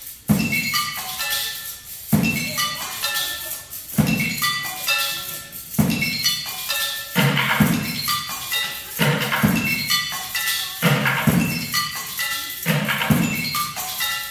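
Percussion ensemble playing a repeating pattern. Low drum strokes and short pitched struck notes come in phrases about every two seconds, and the phrases get denser about halfway through.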